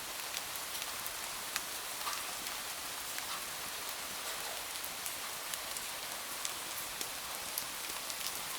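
Steady rain falling, an even hiss with scattered sharp drip-like ticks.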